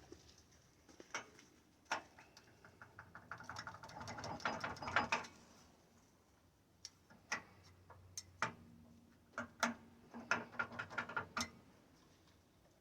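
Steel parts being tapped and worked into alignment during fit-up: several sharp metal knocks and two runs of rapid clicking, one early on and one near the end.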